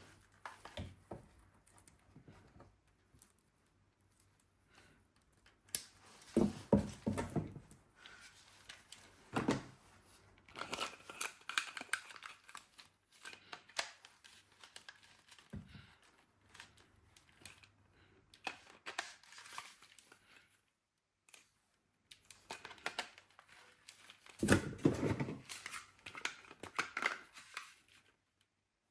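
Packaging being handled: rustling, crinkling and tearing in short bursts, with quiet gaps between.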